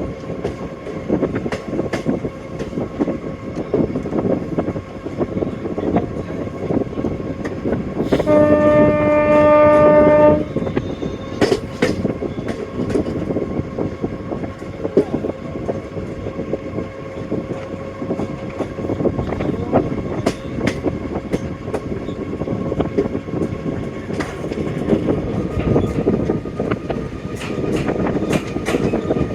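Passenger train running, with wheels clicking over the rail joints. The WDP4 diesel locomotive's horn sounds once, steadily for about two seconds, about eight seconds in.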